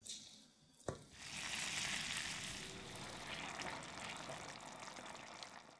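A brief scrape of a fork shredding cooked chicken on a wooden board and a sharp knock just under a second in, then black pepper sauce sizzling and bubbling in a pan, a steady hiss to the end.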